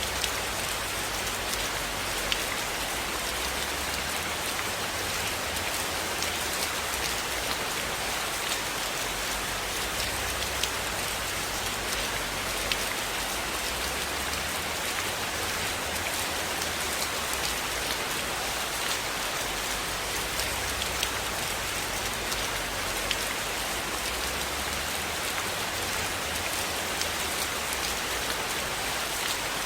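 Steady rain falling, an even hiss with scattered sharp ticks throughout and a low rumble underneath.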